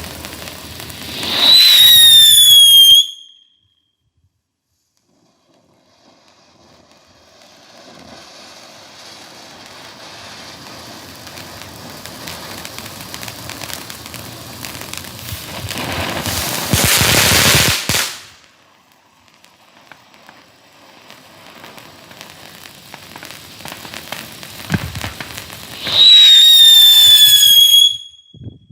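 A 'Tank Engine' novelty firework: a loud whistle that slides slightly down in pitch, then a hissing spray that builds up, peaks, and cuts off suddenly. A second identical whistle sounds near the end.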